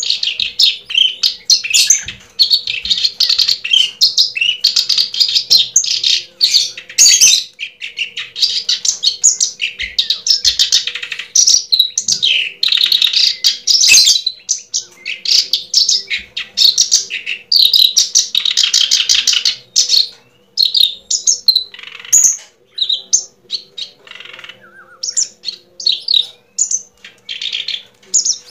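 Birds chirping and twittering rapidly and almost without pause, loud and close.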